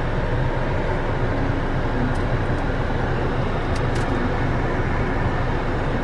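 2015 Dodge Dart's 2.4-litre four-cylinder engine idling steadily, heard from inside the cabin, with a few faint clicks near the middle.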